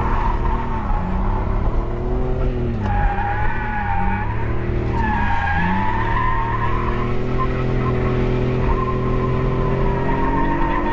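BMW E46 330i's 3.0-litre straight-six revving up and down several times while the car drifts, with tyres skidding; from about six seconds in, the revs hold steadier and climb slowly.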